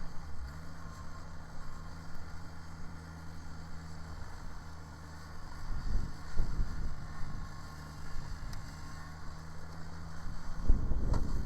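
Kubota BX subcompact tractor's three-cylinder diesel engine running steadily while working a rear-mounted snow blower, a low, even hum. It swells into two louder low rumbles, about six seconds in and again near the end.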